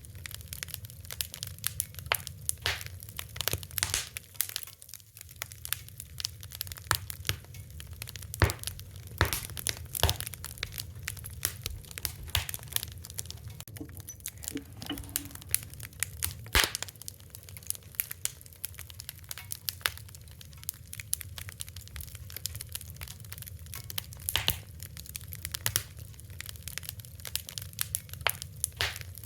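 Wood fire crackling, with irregular sharp pops and snaps over a steady low rumble of burning; a few louder pops stand out.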